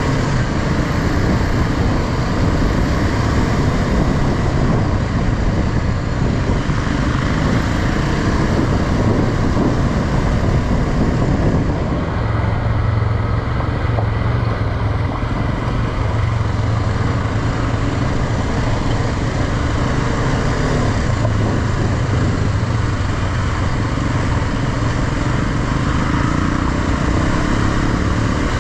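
Motorcycle engine running steadily on the move, under a constant rush of wind noise; the engine note settles into a stronger, steadier hum about twelve seconds in.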